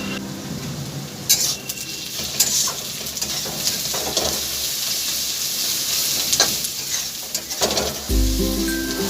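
Food sizzling as it fries in a pan, with a spoon scraping and knocking against the pan now and then as it is stirred. Background music comes back in near the end.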